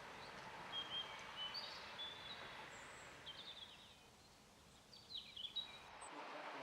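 Faint chirps of small birds in several quick runs, over a steady hiss of outdoor background noise.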